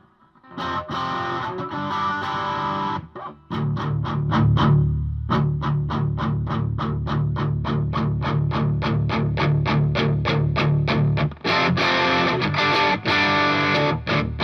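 Distorted electric guitar through an amp: a strummed chord rings for a couple of seconds, then a fast run of evenly picked chugging notes, about six a second, ending on another sustained chord. The sound is picked up mainly by a microphone behind the open-back cabinet, with the front mic turned down.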